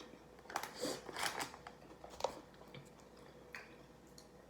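A person chewing and biting food close to the microphone: short irregular crunches and mouth clicks, busiest in the first second and a half, then sparse.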